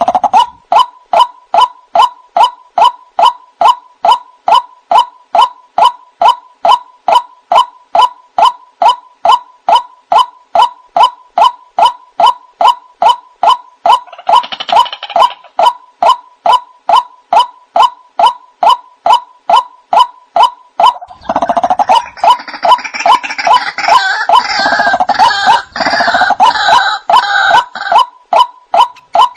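White-breasted waterhen calls: a steady run of short, identical notes, about two a second, with a harsher chorus of calls breaking in briefly halfway through and again for several seconds near the end.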